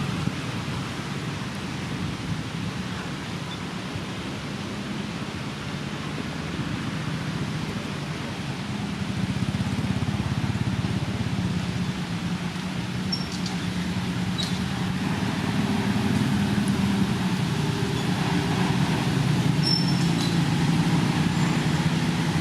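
Steady low engine-like hum, as of a motor vehicle running, growing louder after about nine seconds, with a few faint short clicks and high chirps in the second half.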